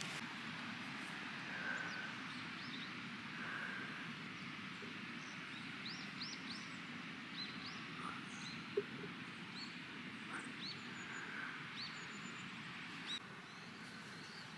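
Small birds calling with short, high, upswept chirps scattered throughout, over a faint steady hiss of outdoor ambience; a single soft click about nine seconds in.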